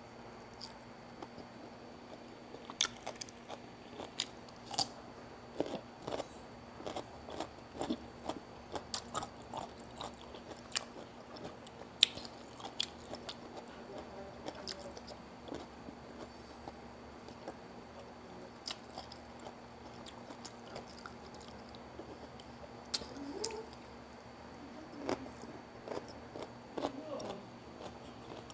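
Close-up eating sounds: a person biting and chewing crisp food, including slices of raw cucumber, with irregular sharp crunches and wet mouth sounds.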